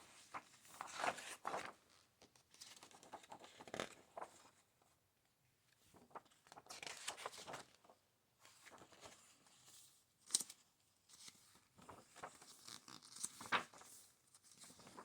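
Pages of a book being turned and smoothed down, paper swishing and rustling in several short spells, with one sharp flick of a page about ten seconds in.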